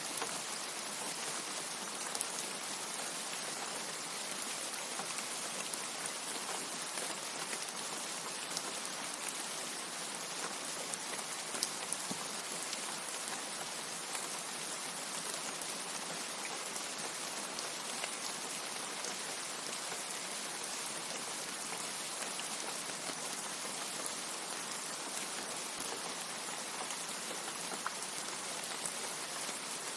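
Steady rain falling, an even hiss with many small drop ticks scattered through it. No thunder.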